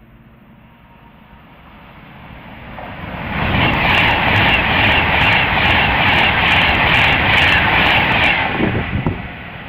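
Virgin Class 390 Pendolino electric train passing through the station at speed: a rushing noise builds over about three seconds, stays loud for about five seconds with a run of sharp clicks, then falls away near the end.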